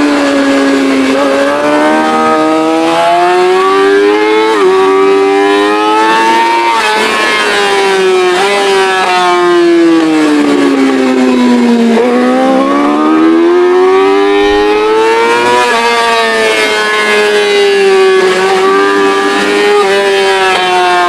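Yamaha R6 inline-four with a straight-pipe exhaust, running at high revs on track. The engine pitch climbs with abrupt drops at quick upshifts around 4.5 and 7 seconds in, falls over several seconds in short steps as the bike slows and shifts down, then climbs hard again from about 12 seconds with further quick upshifts.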